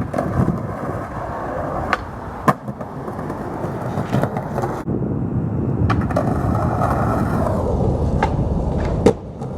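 Skateboard rolling on pavement, its wheels making a steady rumble, with several sharp clacks, the loudest about two and a half seconds in and again just before the end.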